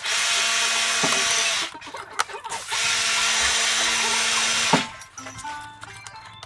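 Electric drill-driver running in two bursts of about two seconds each, with a steady whine and a short pause between them. Background music with short picked notes follows near the end.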